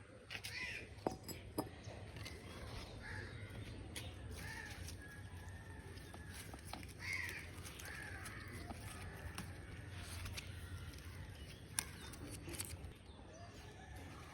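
Crows cawing now and then over a steady low outdoor hum, with a few sharp clicks.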